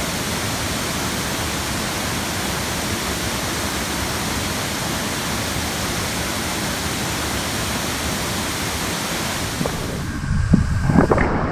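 A large waterfall, a steady, dense rush of falling water. Near the end the rush cuts off suddenly and gives way to irregular low thumps and rumbling.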